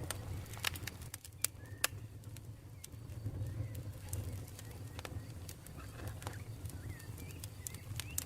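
Campfire burning with irregular sharp crackles and pops over a low steady rumble of the flames. Faint short bird chirps sound in the background.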